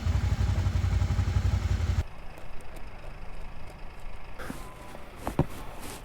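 Motorcycle engine running with a low, evenly pulsing beat that cuts off suddenly about two seconds in. After that comes quiet outdoor background with a few sharp clicks and knocks near the end.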